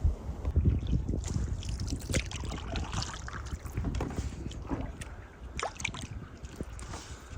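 Canoe paddling: water splashing and dripping off the paddle blade in uneven strokes, with a low wind rumble on the microphone, strongest in the first second.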